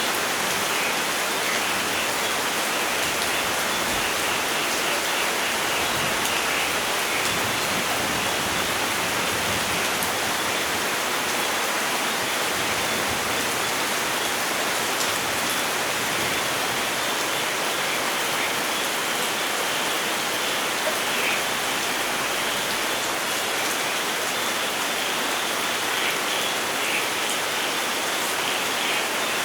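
Steady rain, an unbroken hiss with a fine patter of drops.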